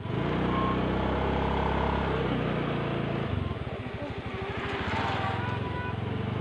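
Motorcycle engine running on the move, with road and wind noise. About three seconds in, the engine note drops and its separate firing pulses come through. Near the end it picks up to a steady note again.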